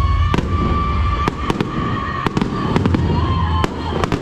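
Aerial fireworks shells bursting: a quick, irregular series of sharp bangs and crackles, about a dozen in four seconds.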